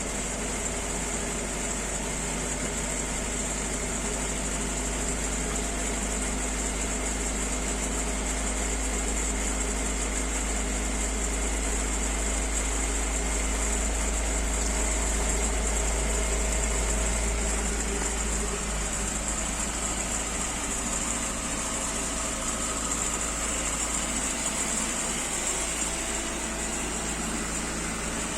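1993 Skoda Favorit's carburetted 1.3-litre four-cylinder engine idling steadily on LPG during a cold start at about 0°C.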